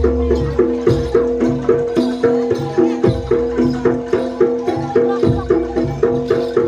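Jaranan gamelan music playing: short pitched struck notes in a quick, even repeating pattern over a held lower note and drums.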